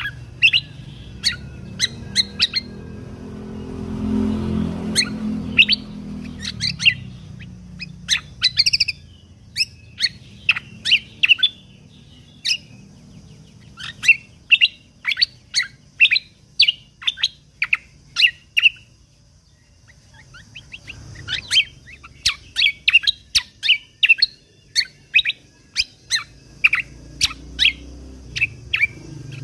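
Kecial kombok (cucak kombo) songbird singing rapid volleys of short, sharp chirping notes in repeated bursts with brief pauses. A low rumble swells and fades about four seconds in.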